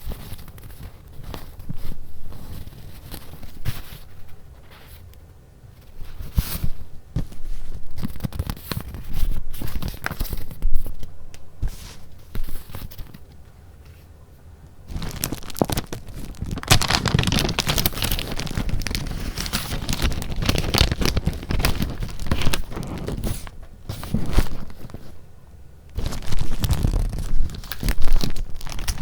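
Paper being handled and leafed through: irregular rustling and crinkling with small taps, pausing twice, then a denser, louder spell of rustling in the second half.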